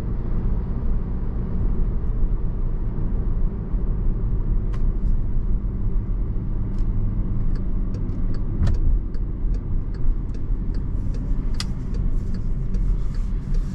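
Car cabin noise while driving: a steady low rumble of engine and tyres on the road. A run of light ticks comes in about halfway through.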